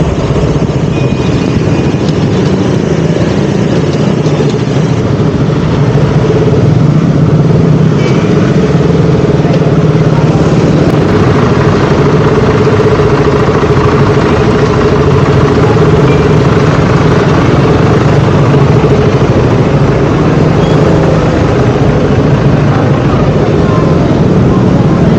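KTM Duke 200's single-cylinder engine running at a steady speed with road and wind noise, a little louder from about six seconds in.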